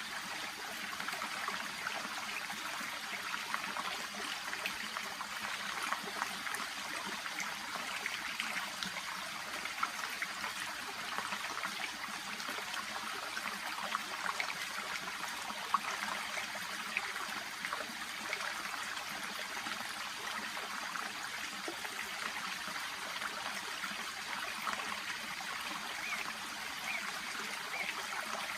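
Shallow brook babbling and trickling steadily, a constant splashing murmur with small bright flicks of water throughout.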